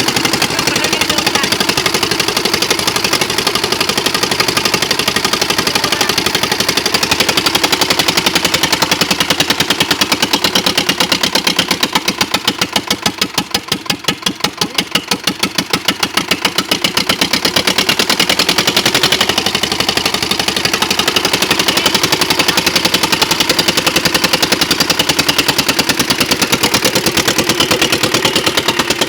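Eicher two-cylinder diesel engine running with a rapid, even chugging beat. About midway it slows and quietens for a few seconds, then picks back up to its earlier speed.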